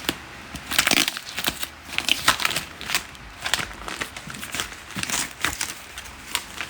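A cardboard box and its packing being pulled open and rummaged through by hand: irregular crinkling and crunching rustles.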